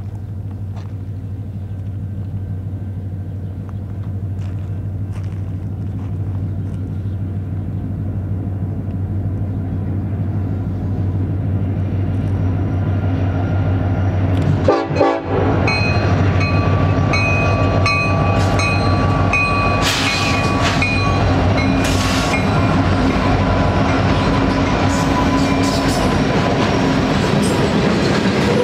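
Union Pacific diesel locomotives drone low and grow louder as the train approaches, and the microphone takes a brief buffet as the lead units pass about halfway. Covered hopper cars then roll past with dense rail clatter, a few clanks and intermittent high ringing tones from the wheels.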